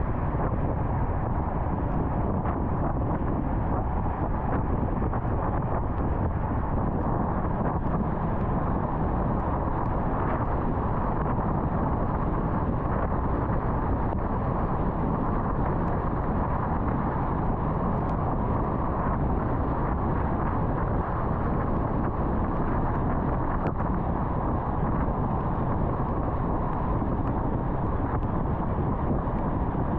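Steady road and wind noise of a car driving at highway speed, an even rush with no changes.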